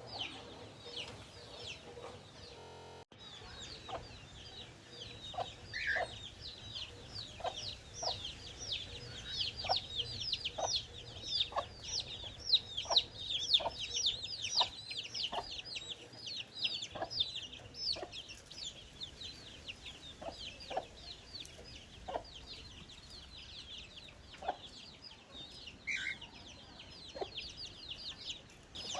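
Birds chirping densely and without pause: many short, high, downward-sweeping calls. Short lower calls are scattered through them, roughly one a second.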